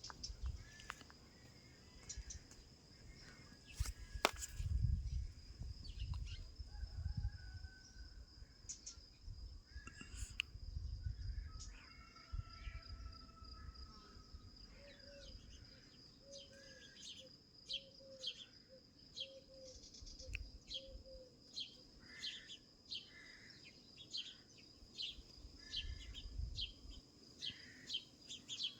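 Small birds chirping outdoors, with short calls that settle into a quick repeated series of about two chirps a second in the second half. A steady high insect trill runs underneath, with a few low rumbles.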